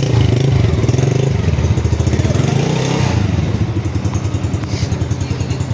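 Ghani 70cc motorcycle's single-cylinder four-stroke engine running with a fast, even beat, revved up briefly about two seconds in and dropping back.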